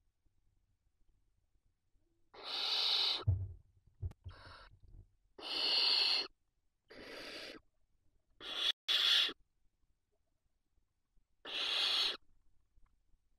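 Barn owl chicks giving their hissing, snore-like begging calls: about seven separate hisses, each under a second long, spaced a second or two apart, with a couple of low thumps of movement in the nest box just after the first.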